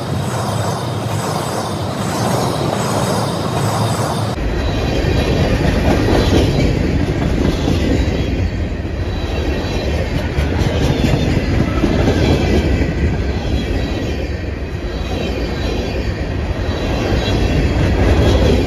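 Freight train of gondola and hopper cars rolling past at close range: a steady rumble of steel wheels on rail with a rapid clatter of wheel clicks. The rumble gets suddenly deeper about four seconds in.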